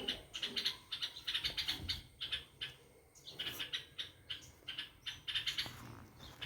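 Nestling birds chirping in quick runs of short, high-pitched calls, with a brief lull about halfway through.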